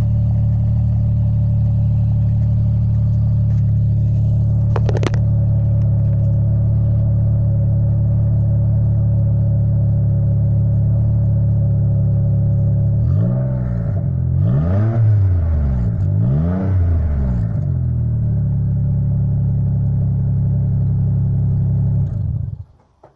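A 2004 Mazda 6 V6 idles steadily through a cheap aftermarket eBay exhaust. Past the middle it is revved three times in quick succession, each a rising then falling note, then settles back to idle. The sound cuts off abruptly near the end.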